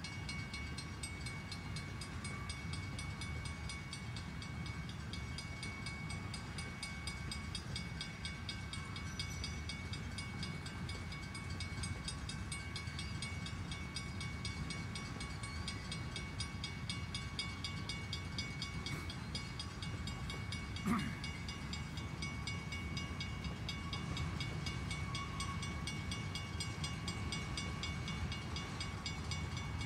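Freight train passing over a road crossing: the steady low rumble of the cars rolling on the rails, with one brief sharp sound about two-thirds of the way through.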